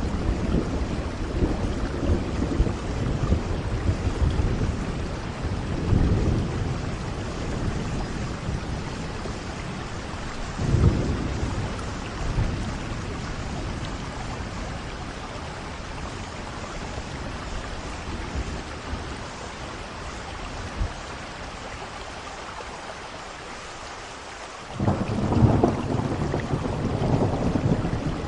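Steady rain with rolling thunder: low rumbles about six and eleven seconds in, a quieter lull, then a louder roll of thunder breaks in suddenly near the end and carries on.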